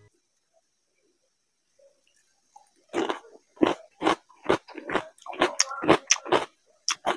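Close-miked chewing of a mouthful of food, starting about three seconds in, at about two chews a second.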